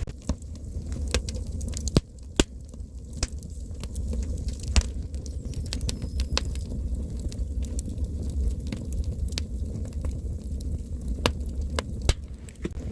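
Campfire crackling, with sharp wood pops at irregular intervals, the loudest a couple of seconds in and near the middle, over a steady low rumble.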